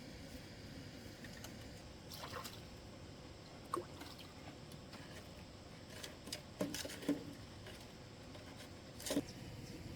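A few small, separate splashes and drips of water, about four short bursts spread over the stretch, above a low steady background hiss.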